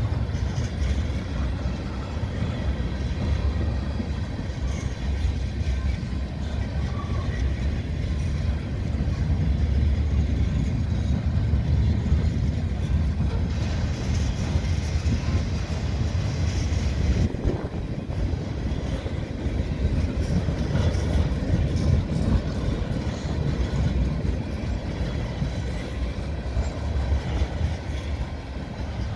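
Freight cars, mostly tank cars and boxcars, rolling past over the rails: a steady low rumble of steel wheels on track, dipping briefly about two thirds of the way through.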